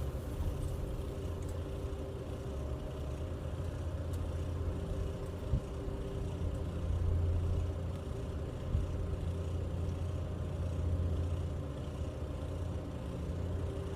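Engine running steadily with a low drone, and two brief sharp knocks, one about five and a half seconds in and one near nine seconds.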